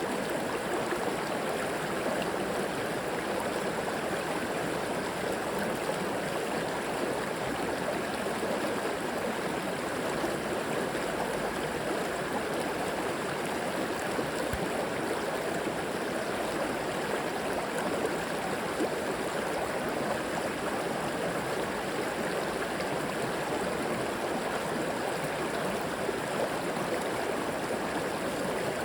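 River water flowing over rocks, a steady, even rush with some gurgling.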